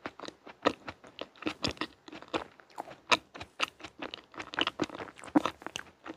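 Close-miked chewing of a bite of layered chocolate dessert: a dense run of small crunchy clicks, several each second.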